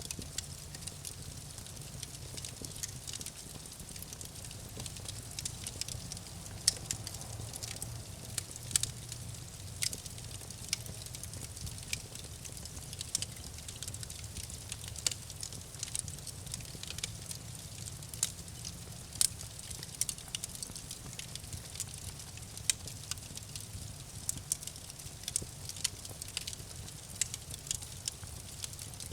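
Campfire burning, with irregular sharp crackles and pops of burning wood over a steady low rumble of the flames.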